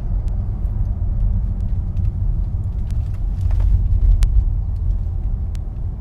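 Steady low rumble of a car's engine and road noise heard from inside the moving car, with a few faint ticks.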